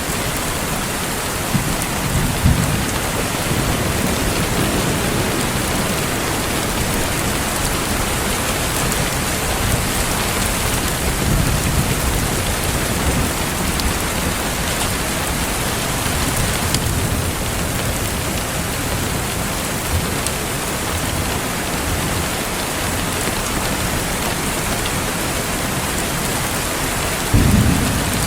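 Steady rain falling, a dense even hiss. Low rumbling swells come and go, the strongest near the end.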